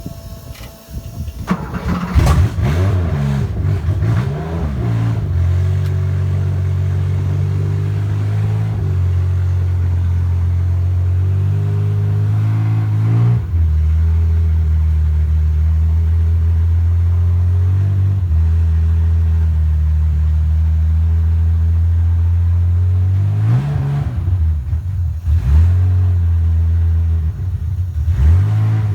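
1974 Porsche 911 RSR race car's air-cooled flat-six cold-starting: it catches about two seconds in and runs unevenly for a few seconds. It then settles into a steady, fast cold idle that shifts speed a few times, with short blips of the throttle near the end.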